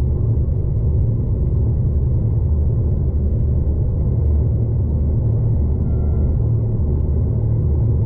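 Steady low rumble of a V/Line diesel passenger train running along the track, heard from inside the carriage.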